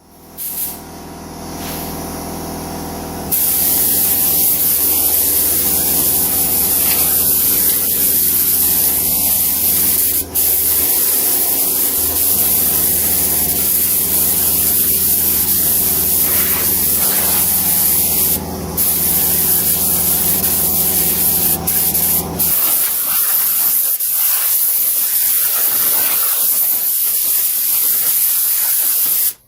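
Compressed air hissing steadily from an air tool, a blast gun or paint spray gun, with a motor humming steadily underneath until about three-quarters of the way through. The hiss breaks off briefly a few times.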